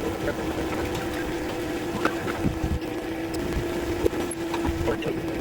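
Steady hum of a small running machine, one constant pitch with overtones, with scattered light clicks and knocks over it.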